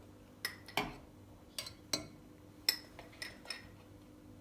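Cutlery and dishes clinking: about seven sharp, ringing clinks at uneven intervals, like utensils knocking against plates or bowls.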